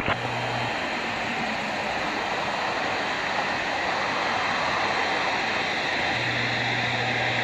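Jet engines running steadily at an airport, a rushing noise growing slightly louder.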